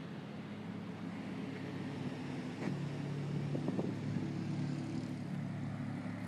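Twin-turbo Mazda RX-7 rotary engine running steadily at idle, a little louder around the middle.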